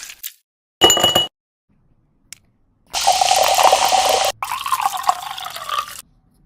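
Water running, as from a tap, in two stretches split by a sudden cut, after a short separate burst of sound about a second in.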